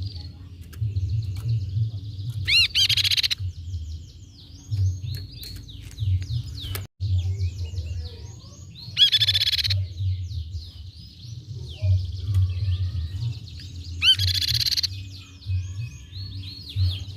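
Crescent-chested babbler (tepus pipi-perak) calling: rapid chattering trills repeated over and over, broken three times by a louder ringing call, about every five to six seconds.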